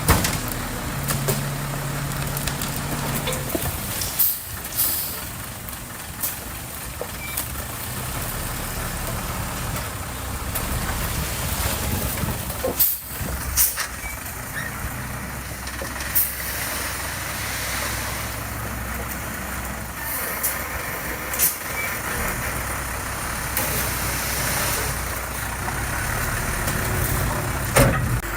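Heavy diesel earthmoving machinery running steadily, with sharp clanks or hisses breaking in every few seconds.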